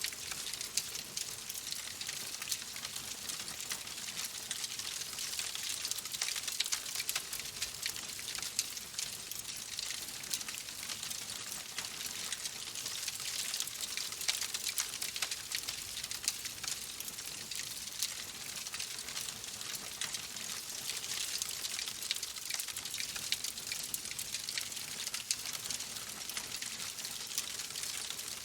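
Fire crackling in a fireplace: a steady hiss dense with small, quick pops and snaps.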